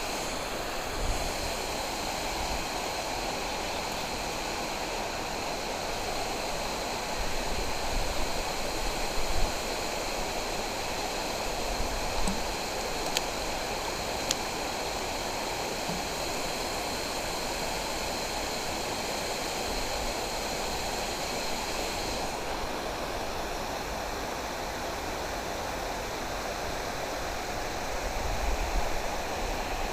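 Steady rushing of flowing water. A few low rumbles are heard on the microphone, and two faint clicks come about a second apart midway through.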